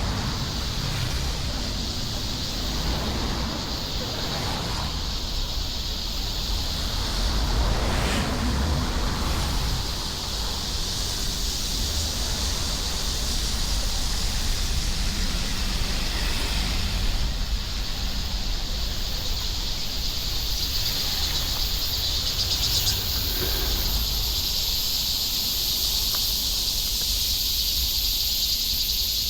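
A steady, high insect chorus over a low rumble of outdoor background noise.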